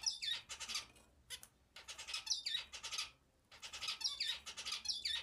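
Pet bird singing: three bursts of quick, scratchy chatter mixed with short falling whistles, each lasting about a second.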